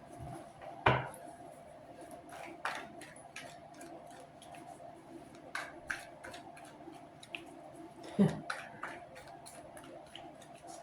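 Tarot cards being handled: a scatter of short snaps and taps as cards are shuffled, drawn and laid down, the sharpest about a second in and near eight seconds, over a faint steady hum.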